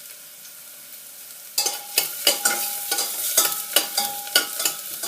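Chopped garlic sizzling in hot coconut oil. About a second and a half in, a spatula starts stirring it, knocking and scraping against the pan two or three times a second with a short ringing note each time.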